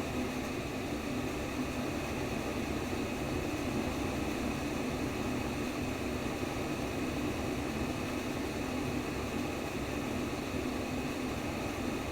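Steady white noise for baby sleep: an even, unbroken rush of noise with a fuller low band, holding the same level throughout.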